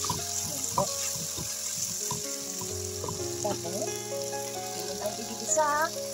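Chicken breast pieces sizzling as they fry in butter and oil in a pot, with a spatula clicking and scraping against the pot in the first second or so. A short wavering vocal sound comes near the end.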